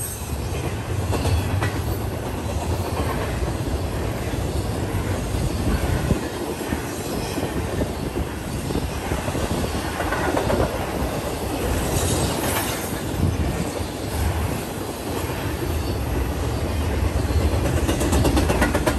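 BNSF intermodal freight train's loaded well cars rolling past: a steady rumble of steel wheels on rail with clickety-clack over the rail joints, and a brief high wheel squeal a little past halfway.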